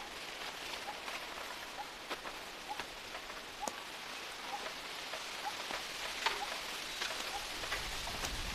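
Rain falling: a steady hiss with many scattered, sharper drops landing close by.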